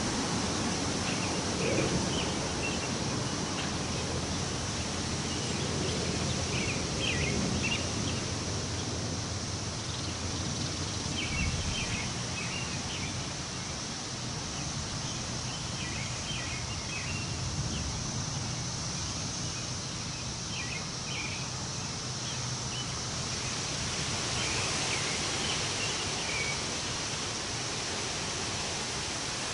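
Wind blowing through trees: a steady rustling hiss of leaves, with small birds chirping in short bursts every few seconds.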